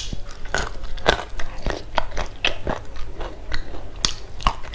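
Close-miked chewing of food by mouth, with irregular crisp crunches and clicks several times a second.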